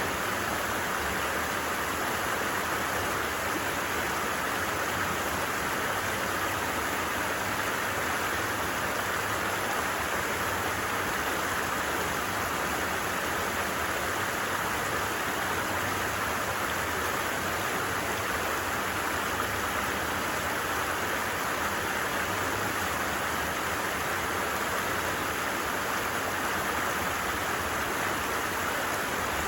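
Stream water running with a steady, even rushing sound.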